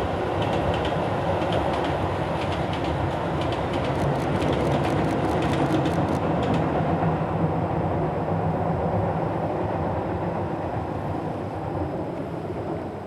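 Tobu 10000 series electric train running past, its wheels clicking rapidly over the rail joints for the first several seconds, then a steady rumble that fades out near the end.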